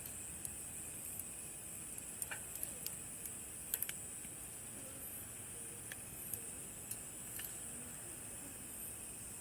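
Wood campfire crackling, with irregular sharp pops, a few louder ones between about two and four seconds in, over a steady high chirring of summer night insects.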